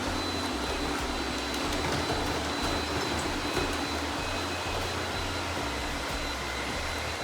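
Robot vacuum cleaner running: a steady whirr with a constant high whine and low hum, and a few light clicks.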